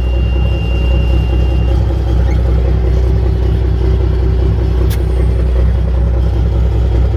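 The M923 5-ton truck's 14-liter naturally aspirated Cummins inline-six diesel running with a heavy, steady low rumble. A thin, steady high tone sounds at first and stops about a second and a half in, and there is one sharp click about five seconds in.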